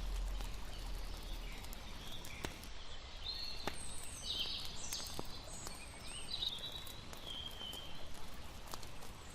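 Layered night-time nature ambience: a campfire crackling in scattered sharp pops over a steady hiss of lapping water. A run of short, high chirping calls comes through the middle.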